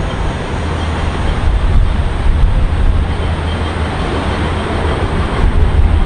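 Metro-North commuter train running past the platform: a steady low rumble with wheel-on-rail noise.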